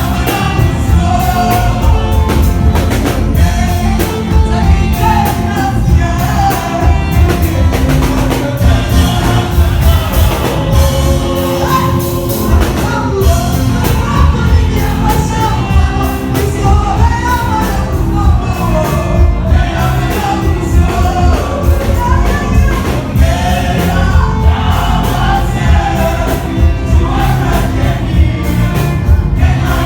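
Congregation singing a gospel praise and worship song together over band music with a steady beat.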